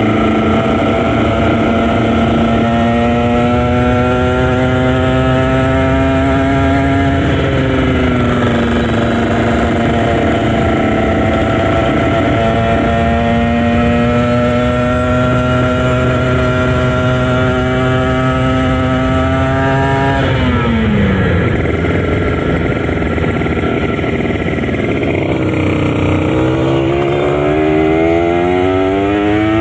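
Kawasaki Ninja RR 150's two-stroke single-cylinder engine running hard on the road, its pitch climbing slowly through a gear. The pitch dips about seven seconds in, climbs again, then falls steeply about twenty seconds in as the throttle closes, before revving back up near the end.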